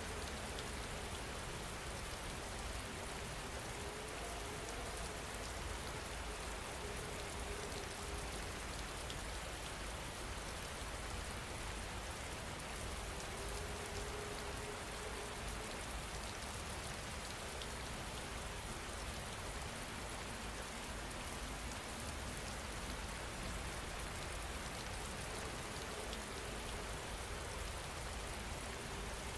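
Steady rain falling, an even hiss with a low rumble underneath. A faint wavering tone comes and goes.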